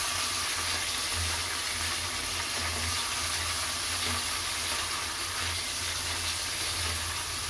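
Paneer strips frying in hot oil in a nonstick kadhai: a steady sizzle as they are turned with a silicone spatula.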